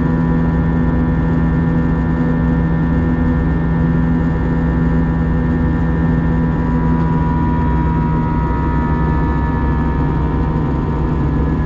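Airbus A321 cabin noise in flight: a steady jet engine drone and deep airflow rumble with several steady whining tones, a few of which shift slightly in pitch past the middle.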